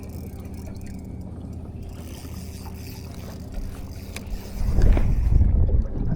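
Steady low hum of a boat's motor. About four and a half seconds in, a louder low rumble comes in over it.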